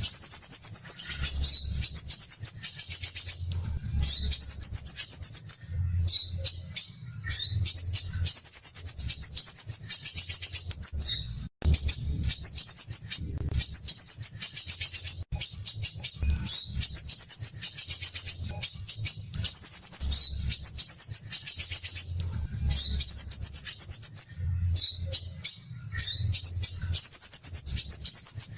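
Crimson sunbird singing its harsh, dense, rapid trills, phrase after phrase of about one to two seconds with short gaps between, over a faint low hum.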